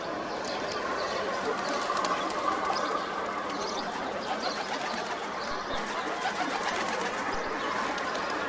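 A flock of pigeons: a dense, steady din of many birds' calls.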